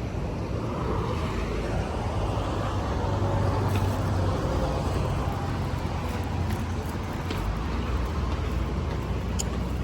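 Steady road traffic: the even rumble and tyre hiss of cars passing on a city street.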